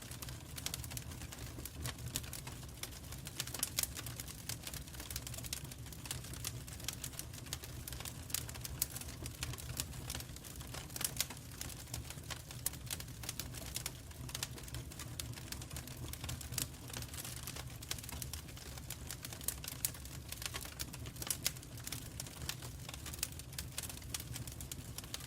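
Wood fire in a fireplace crackling: constant irregular snaps and pops over a steady low rumble of the flames.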